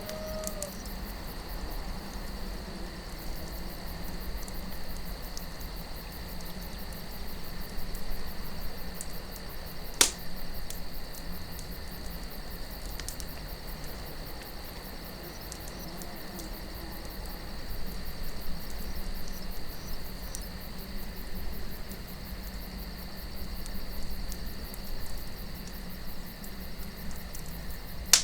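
Campfire of burning wood crackling, with scattered small pops and one sharp, loud pop about ten seconds in, over a steady chirring of crickets and a low wind.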